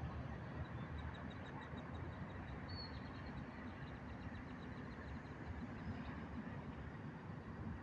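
Steady low rumble of wind and tyre noise from riding a bicycle. Over it, an animal gives a rapid run of high, evenly spaced chirps, about five a second, from about a second in until past the middle, with a few single chirps besides.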